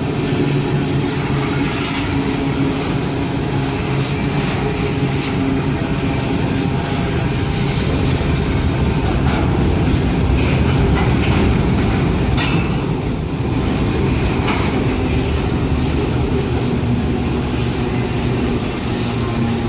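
Freight train of boxcars rolling past: a loud, steady rumble of wheels on rail, with occasional sharp clacks as the wheels cross rail joints.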